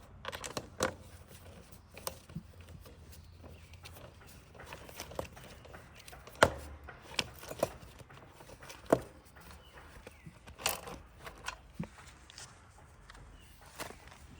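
Scattered, irregular clicks and knocks of hand work with tools and small parts, the loudest about six and a half and nine seconds in.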